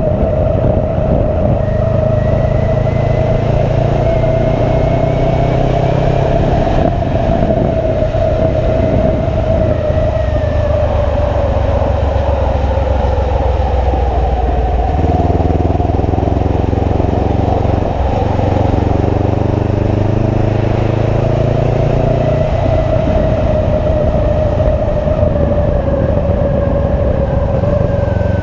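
Motorcycle engine running while riding, with steady wind and road noise. The engine note drops to a different pitch about halfway through and rises again a few seconds later.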